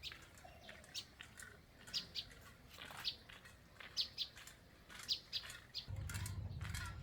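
Birds chirping in short, scattered high calls. Near the end a steady low hum starts up.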